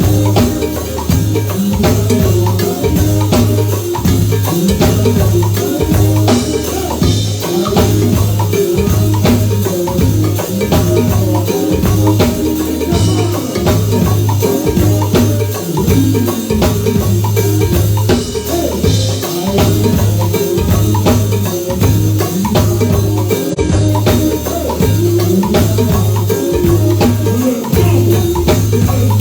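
Live band music with a steady beat and a pulsing bass line, with drums and a bright melodic part.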